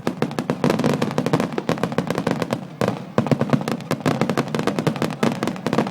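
Aerial fireworks barrage: shells bursting in rapid succession, several bangs a second, with a brief dip about three seconds in before the volley picks up again.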